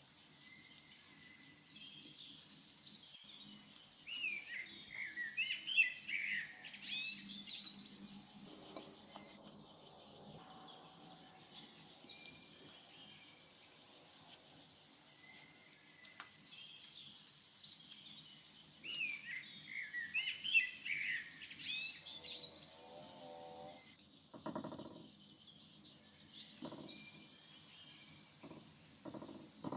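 Outdoor ambience of small birds chirping and singing in two bursts, the second much like the first, over a low steady background. A few knocks come near the end.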